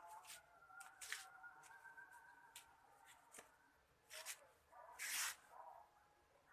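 Near silence with a few faint clicks and rustles, and a short hiss about five seconds in.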